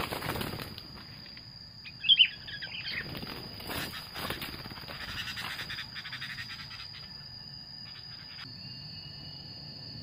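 Birds chirping, with one short loud burst of chirps about two seconds in and fainter calls after, over a steady high-pitched insect drone.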